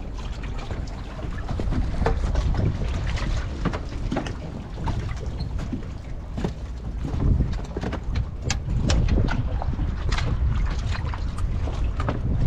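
Wind buffeting the microphone, a heavy uneven rumble, with scattered sharp ticks and splash-like knocks throughout.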